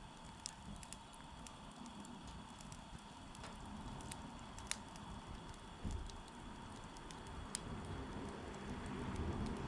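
Wood campfire burning and crackling, with scattered sharp pops over a low steady rush; the loudest pops come near the middle and about two-thirds of the way through.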